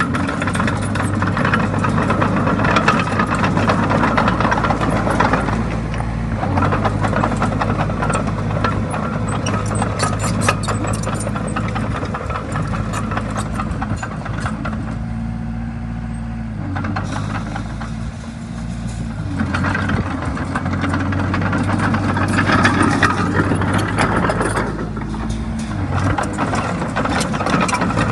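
Komatsu D20A bulldozer's diesel engine running under load, with steady track clatter; it eases off for a couple of seconds about halfway through, then picks up again.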